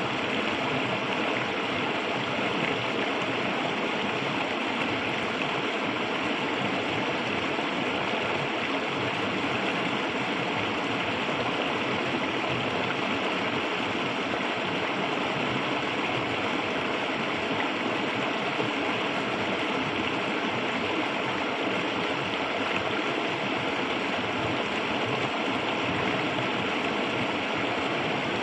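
A clear, shallow river flowing over stones, its water rushing and gurgling steadily without a break.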